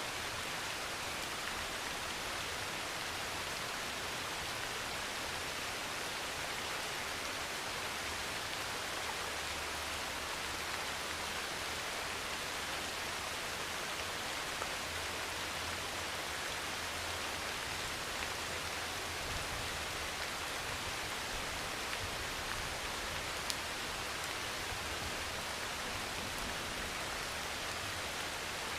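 Rain pouring on a metal roof: a steady, dense hiss with a few sharper ticks of single drops striking.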